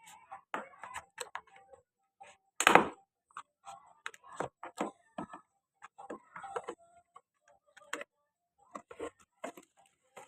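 Irregular clicks, taps and rustles of hands handling packaging and a laptop LCD panel, with one louder knock about three seconds in.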